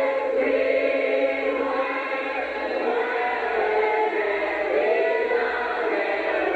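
A group of voices singing together in unison, a hymn-like chant held steadily throughout.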